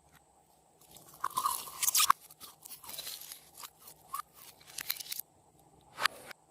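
Slime being squished and worked by hand, giving bursts of crackling pops; the densest, loudest crackling comes about a second in, and a last short burst comes near the end.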